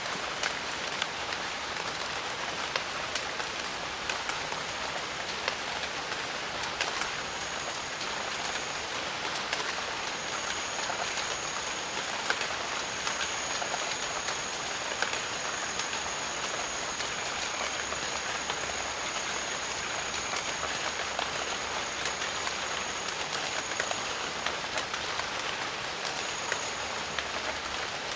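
Steady jungle rain, a dense even hiss with many separate drops ticking. A thin, steady high-pitched tone comes in about a quarter of the way through and holds until near the end.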